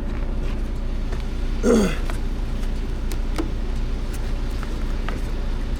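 Timber truck's diesel engine idling with a steady low hum. A short falling grunt from a person comes about two seconds in, and a few light clicks follow.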